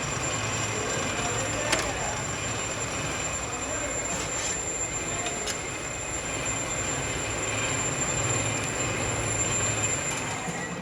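Metalworking machinery in a factory running steadily, with a constant high whine and a few sharp metallic clicks.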